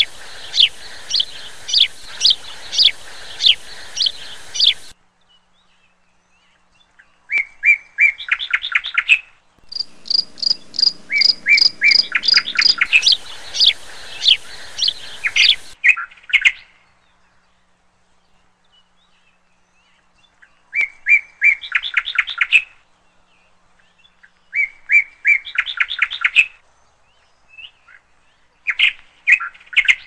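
Songbirds singing: first a series of sharp downslurred chirps, about two a second, over a steady hiss that stops about five seconds in. After that come short phrases of rapid repeated notes, each about a second and a half long, separated by pauses of a few seconds.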